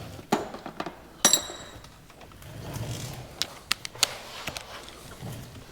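Metal hand tools and small parts clinking and scraping during work on a two-stroke dirt bike engine, with one sharp ringing clink about a second in and scattered lighter clicks after it.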